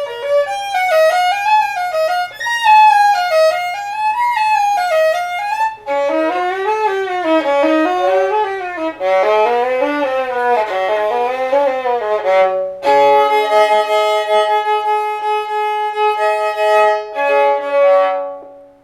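Solo violin playing fast up-and-down scale runs that drop to a lower register partway through. In the last few seconds it moves to held chords of several notes sounding together, which end near the close.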